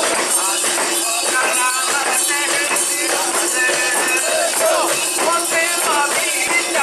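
Mikoshi procession: many voices of the bearers and crowd chanting and calling over one another, against a continuous metallic jingling, with a steady held tone underneath.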